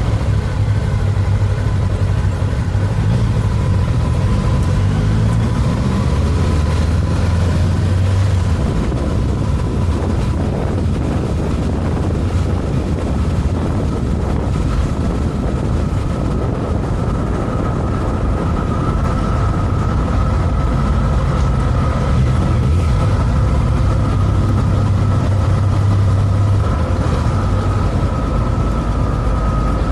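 Motorcycle on the move: the Honda CB500X's parallel-twin engine running steadily under wind and road noise, its note shifting a little now and then.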